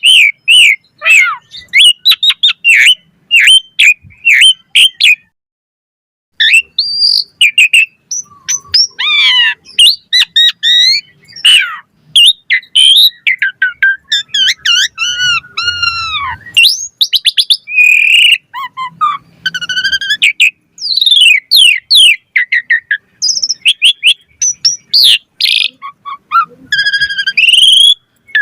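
Asian pied starling (jalak suren) in full, fast song: rapid strings of whistles, rising and falling glides and quick chattering notes, with a short pause about five seconds in.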